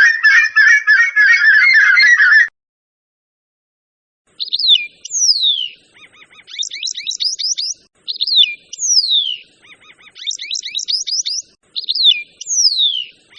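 A flock of geese honking continuously, cutting off about two and a half seconds in. After a short silence, a bird sings the same phrase three times: a few short notes, a long whistle falling in pitch, then a fast trill.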